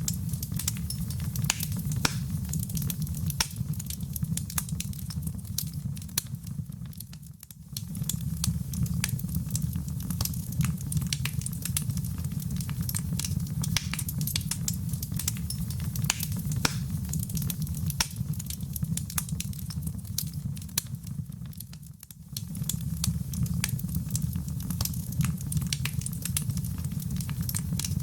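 Wood fire crackling, with frequent sharp pops and snaps over a steady low rumble of the flames. The sound dips briefly twice and comes back.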